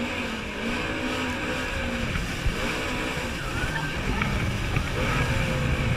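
Jet ski engine running, heard over a steady rush of wind and water. Its low tone holds level for about two seconds, then wavers and breaks up.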